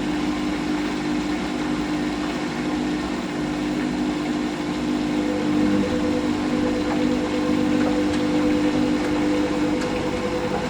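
Washing machine drain pump running steadily, pumping out the rinse water, with a steady hum; a second, higher hum joins about halfway through.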